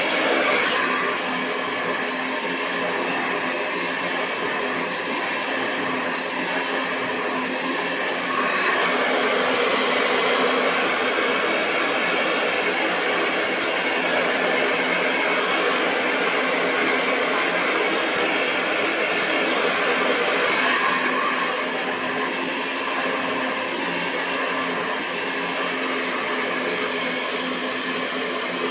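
Hair dryer blowing continuously: a steady rush of air over a constant motor hum. It steps up a little louder about eight seconds in and drops back about twenty-one seconds in.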